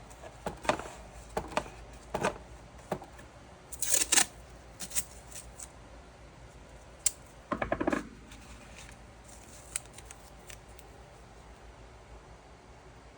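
Irregular small clicks and taps of objects being handled, the loudest about four seconds in, with a quick rattling cluster near eight seconds; quieter toward the end.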